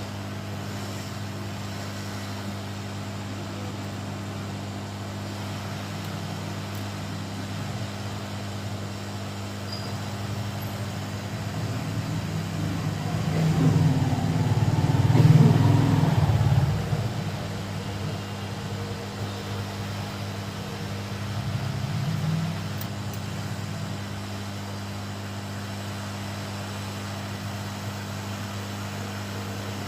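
Steady low electrical hum from bench equipment. A louder rumble swells from about twelve seconds in, peaks, and stops abruptly a few seconds later, with a smaller swell after it.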